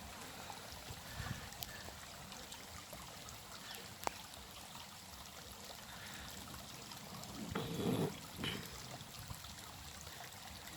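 Running water trickling steadily, with a sharp click about four seconds in and a louder rush of noise a little past halfway.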